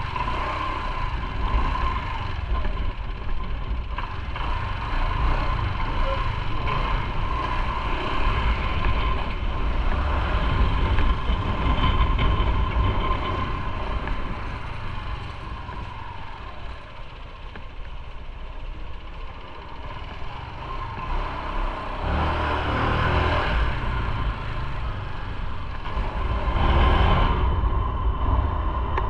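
Motorcycle ride heard from the rider's microphone: the engine runs with a steady low rumble and wind noise. The wind noise swells louder twice in the last third.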